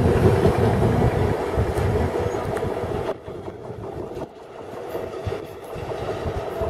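Enclosed car-carrier freight wagons passing close by, rumbling with their wheels clattering over the rail joints. About three seconds in the last wagon goes by and the sound drops to the quieter rumble of the train moving away.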